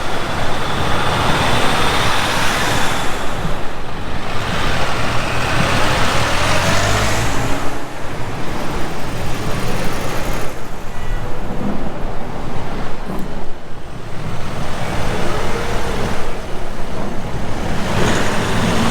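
Street traffic: vehicles passing, their engine and tyre noise swelling and fading twice in the first several seconds over a steady low rumble.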